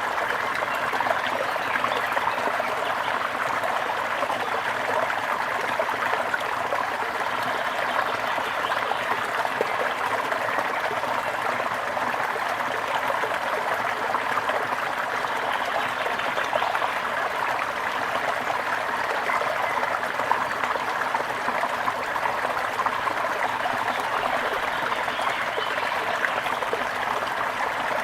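Water flowing and trickling steadily, with a continuous splashing hiss and no pauses.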